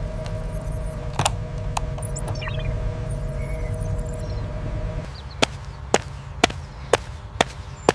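Industrial machinery running with a steady low rumble and hum, with a single sharp click about a second in. About five seconds in the sound changes abruptly to a quieter background with regular sharp clicks or taps, about two a second.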